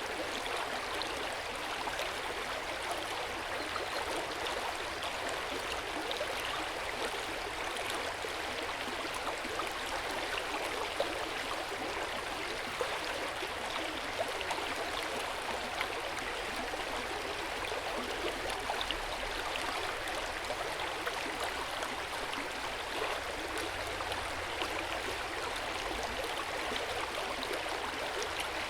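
Hot-spring water flowing into an open-air onsen bath: a steady rush of running water with small splashes here and there.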